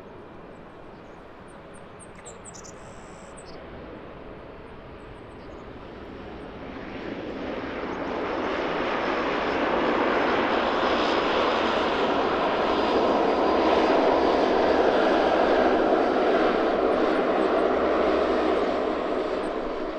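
An airliner on final approach passing close by: its engine noise swells from about six seconds in and stays loud, a broad rush with a faint high whine on top, easing off near the end.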